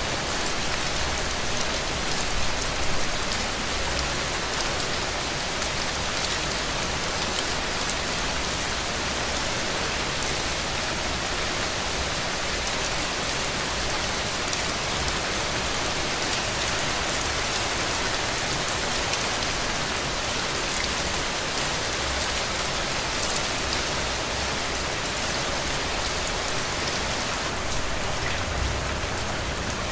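Heavy rain falling steadily, a dense even hiss of drops with scattered individual drop ticks and occasional soft low rumbles.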